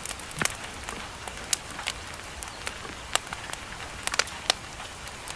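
Steady hiss of rain with a campfire crackling: irregular sharp pops and snaps scattered through it.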